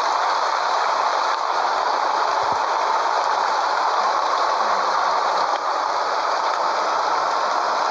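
Scania 113H truck with bitrem trailers on the move: a steady, even rolling rush of road and running noise with no change in pace.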